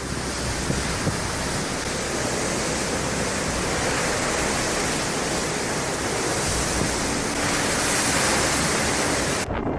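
Steady, dense rushing noise of storm wind and water, with no distinct events. It changes abruptly near the end.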